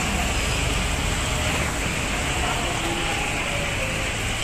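Heavy rain pouring steadily onto a street, with vehicles such as auto-rickshaws driving along the wet road underneath.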